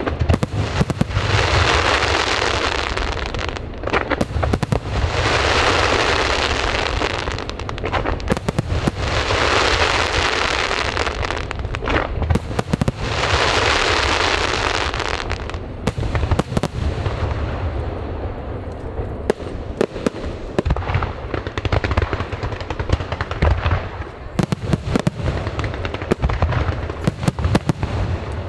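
Aerial fireworks display: many sharp bangs, with four long rushing swells of noise in the first half, each lasting two to three seconds, then a dense run of rapid bangs to the end.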